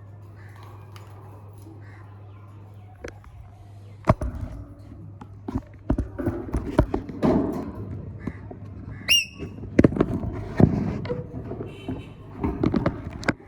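Green parrot giving one short shrill call about nine seconds in, among scattered knocks and thumps and low chattering sounds over a steady hum.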